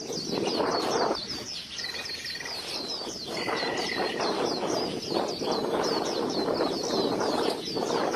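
A bird calling in a fast, even series of short, high chirps, about five or six a second, with a couple of brief whistled notes, over a steady rushing background noise.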